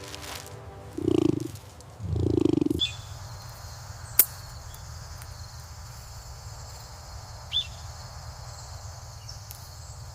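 Two short, low animal calls, about one and two seconds in, followed by a steady hiss broken by two sharp clicks.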